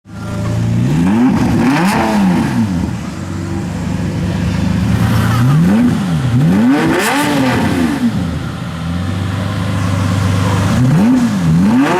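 The V12 of a first-generation Lamborghini Murciélago with a Quicksilver quad exhaust, idling and then blipped in quick double revs, pitch rising and falling twice each time. This happens three times, about five seconds apart: near the start, around the middle, and near the end.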